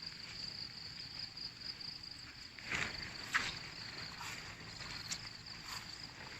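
Insects calling in a steady high-pitched trill, with a few soft rustles around three seconds in.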